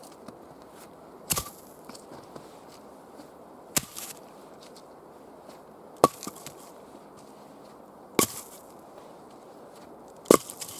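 Wood being chopped by hand: sharp single strikes about two seconds apart, five in all, the last a quick double blow.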